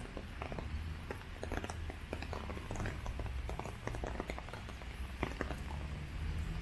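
Raindrops tapping irregularly on an umbrella held overhead, many scattered sharp ticks, over a steady low rumble.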